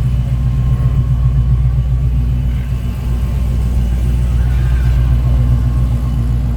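Car engine idling close by with a deep, steady rumble.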